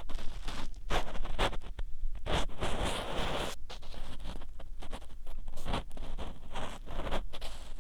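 Ear-cleaning tool scraping and rubbing inside the ear of a 3Dio binaural microphone, close and loud, in a string of short scratchy strokes with one longer scrape about two and a half seconds in.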